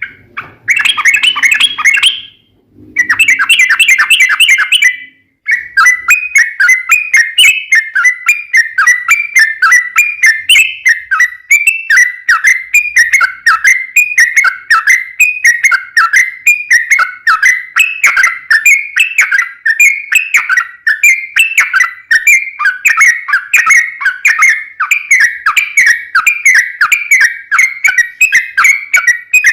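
Yellow-vented bulbul (trucukan) singing a long rapid run ('ropel panjang'). Two short bursts of song come in the first five seconds, then a continuous string of quick repeated whistled notes.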